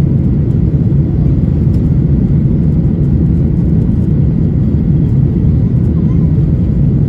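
Boeing 737-800's CFM56-7B jet engines running during takeoff, a loud, steady, low rumble that holds even throughout.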